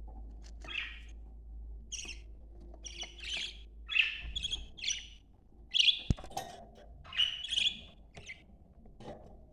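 Budgerigars chirping and chattering: a string of short, irregular high chirps and squawks.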